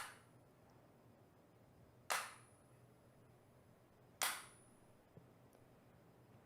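Jukbi, a Buddhist split-bamboo clapper, struck three times about two seconds apart, each a sharp clap with a brief high ring: the signal that ends the seated entering-meditation.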